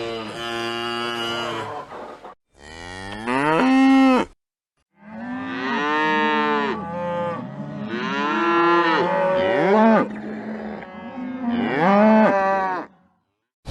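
Cattle mooing: several long moos, some rising and falling in pitch, joined as separate clips with short silent gaps between them.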